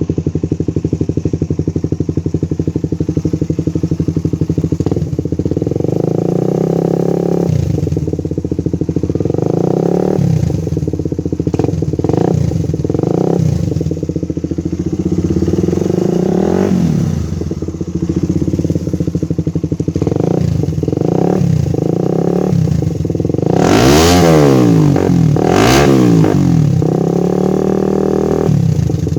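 Suzuki Satria FU 150's single-cylinder four-stroke engine, breathing through a WRX K2 Trioval aftermarket exhaust, idling with a steady pulse and blipped up and down in repeated throttle revs. The two highest revs come near the end.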